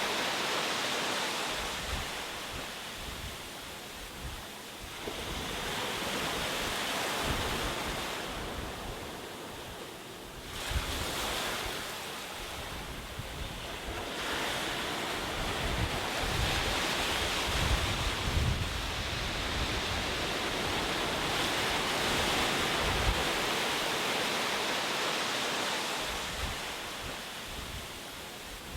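Ocean surf breaking and washing ashore, a steady rushing that swells and ebbs every several seconds, with wind buffeting the microphone in low gusts.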